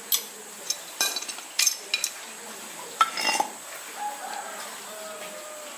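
Sharp metallic clinks and taps, several in a row over the first few seconds, as metal tools and small parts are handled during the motorbike repair.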